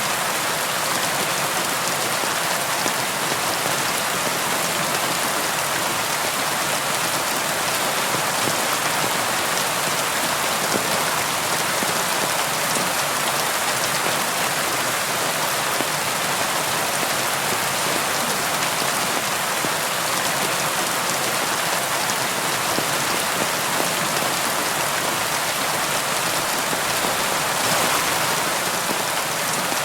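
Rain falling steadily on a tin roof: a dense, even hiss of countless drops hitting the metal.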